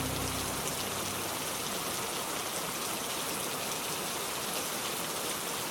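Steady rain, an even pattering hiss with no rhythm or pitch. The last of a sustained music chord dies away in the first half-second.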